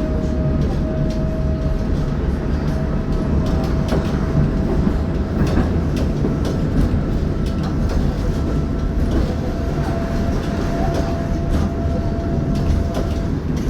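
Tatra T6B5SU tram running along the track: a steady rumble of wheels on rails, with scattered clicks over rail joints and a thin steady whine.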